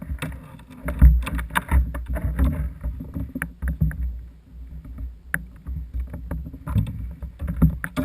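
Irregular knocks and clatter aboard a fishing kayak over a constant low rumble.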